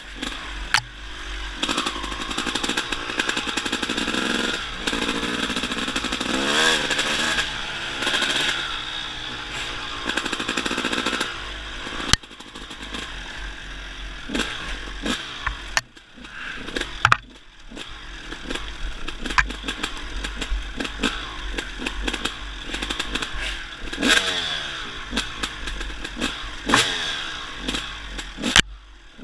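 Dirt bike engine revving up and down as it is ridden, its pitch repeatedly climbing and falling, with a few brief drops in sound partway through.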